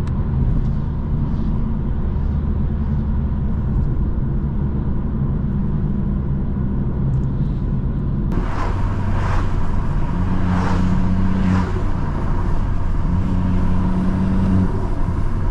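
BMW M2's turbocharged straight-six running under way, heard from the driver's seat. About eight seconds in the sound suddenly opens up and gets brighter, with surges of engine and exhaust as the car accelerates, which the driver calls loud.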